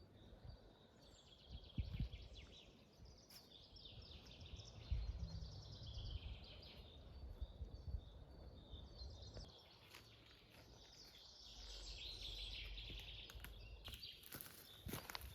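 Faint birdsong, bursts of high chirping that come and go, with occasional low thumps and bumps close by.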